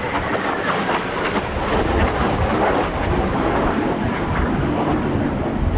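Kawasaki T-4 jet aircraft engine noise, steady and loud, mixed with strong wind buffeting the microphone.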